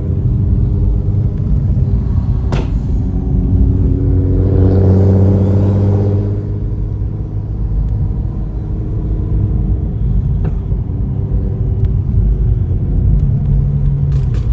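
A sports car's engine running at highway speed with heavy road rumble, swelling louder under throttle about four to six seconds in and then easing off.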